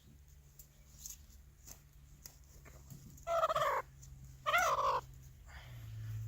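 A hen trapped in a hole giving two loud, wavering squawks a little over half a second apart, partway through.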